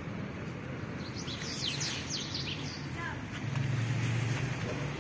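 A small bird chirping: a quick run of short, high, falling chirps about a second in, then a couple of lower calls. A low steady hum comes in near the end.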